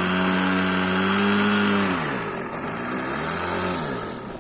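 OS 55 two-stroke nitro glow engine of an RC airplane running at high revs. Its pitch drops about two seconds in, climbs back, then drops again and fades near the end.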